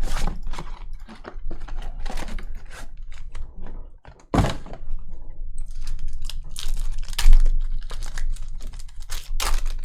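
Trading card packs and cards being handled: foil wrappers torn and crinkled and cards flicked and slid, giving a dense run of quick irregular clicks and rustles, with louder snaps about four and a half and seven seconds in.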